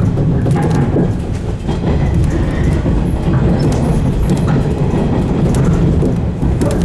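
JR 115 series electric train running along the line, a steady low rumble of wheels and motors with scattered clicks of the wheels over the rails.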